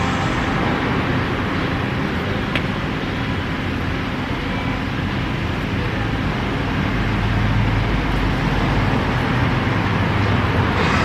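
Road traffic noise: a vehicle engine running with a steady rumble and road hiss, getting louder in the last few seconds.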